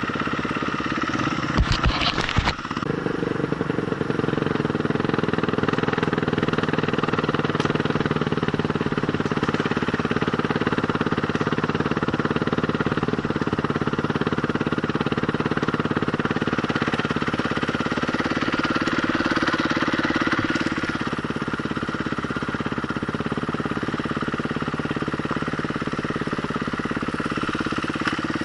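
Enduro motorcycle engine running steadily, with a cluster of sharp knocks and rattles about two seconds in.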